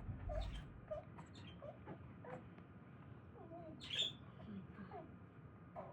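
Scattered short, faint chirps and squeaks of a small bird, a few a second, with one louder, higher note about four seconds in.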